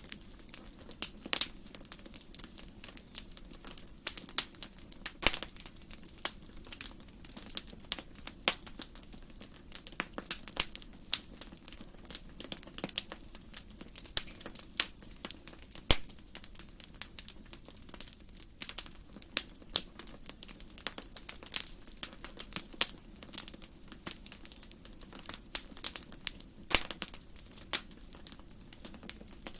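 Wood fire burning in a fireplace, crackling and popping with irregular sharp snaps, several of them louder, over a low steady rumble.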